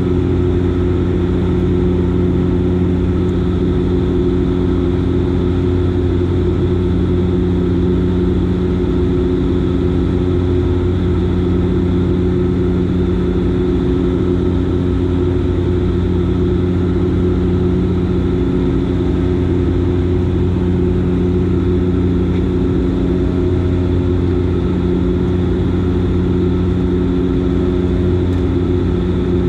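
Dash 8 Q400's Pratt & Whitney PW150A turboprop engines and six-blade propellers running at steady power in flight: a constant loud drone with a low propeller hum and several steady tones over a wash of noise.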